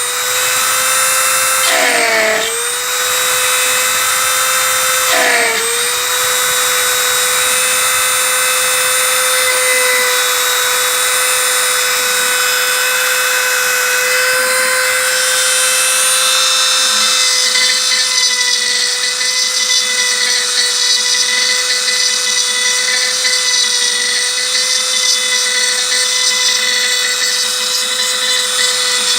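Homemade CNC router's spindle cutting a 3 mm aluminium sheet dry, with no coolant: a steady high whine whose pitch sags briefly twice in the first six seconds as the bit takes load. From about two-thirds of the way through, a rougher, grittier cutting noise joins it.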